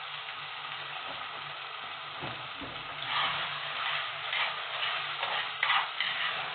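Saltfish and okra frying in a pot with a steady sizzle while a spoon stirs them. From about three seconds in come several louder scraping strokes of the spoon through the food and against the pot.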